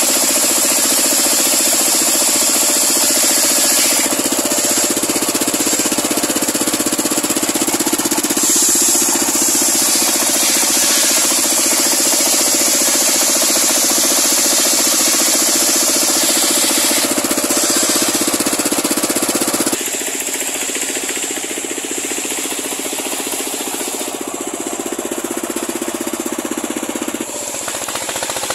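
Homemade engine-driven circular sawmill running steadily, its blade ripping a large pule log lengthwise for boards. The sound drops in level about two-thirds of the way through.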